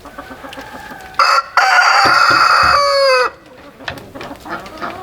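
A rooster crowing once, close and loud, for about two seconds starting just over a second in, its pitch dropping away at the end of the crow.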